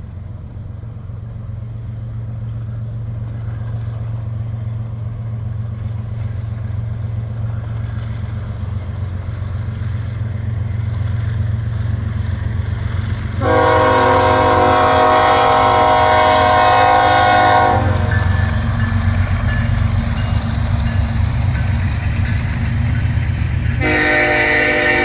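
Diesel freight locomotives approaching, their low engine rumble growing steadily louder. The lead locomotive's multi-chime horn sounds a long blast of about four seconds about halfway through, and sounds again near the end.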